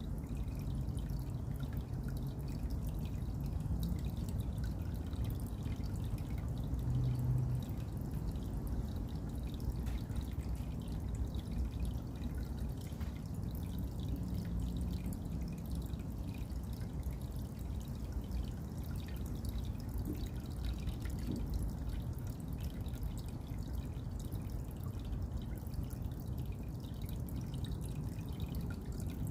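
Water dripping and trickling steadily, over a low, even rumble.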